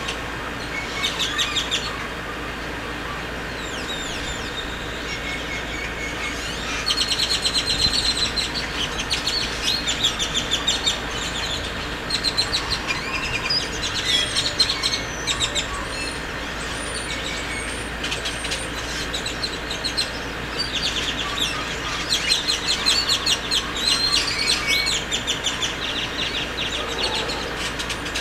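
Birds chirping and chattering in quick runs of high notes that come and go, busiest about a quarter of the way in and again towards the end.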